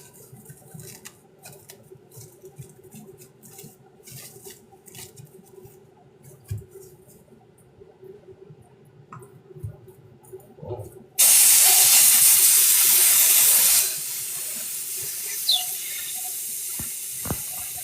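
Faint handling clicks, then about eleven seconds in water starts running hard from a tap into a sink. After about three seconds the flow drops to a softer steady run that continues.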